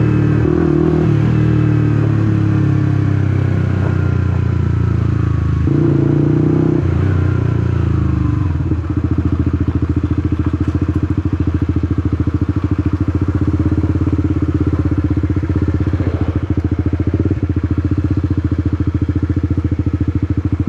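Honda CBR150R's single-cylinder four-stroke engine running as the bike slows, its pitch falling, then settling into a steady, even idle about nine seconds in.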